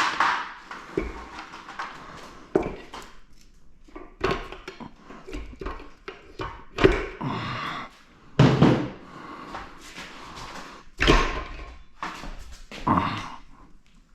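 Metal parts from the bottom end of a 2.4 GM EcoTec engine being handled during teardown: a string of separate knocks as parts are pulled and set down, several with a short metallic ring.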